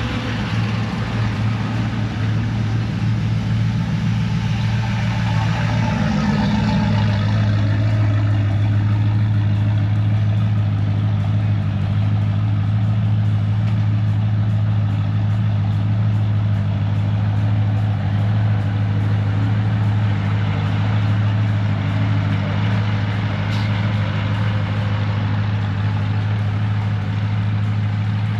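A motor vehicle engine idling steadily: a constant low drone that settles slightly about six seconds in.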